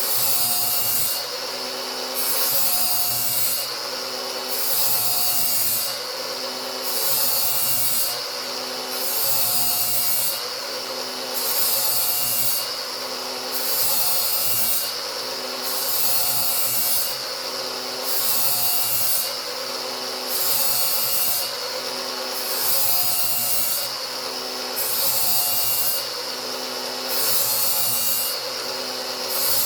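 Angle grinder running steadily while grinding a new edge on a steel mower blade, its grinding hiss rising and easing in regular passes about every two seconds.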